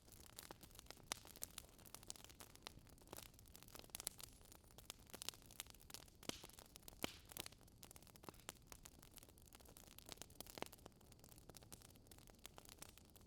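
Wood fire in a fireplace crackling softly, with irregular small pops and snaps several times a second over a faint hiss.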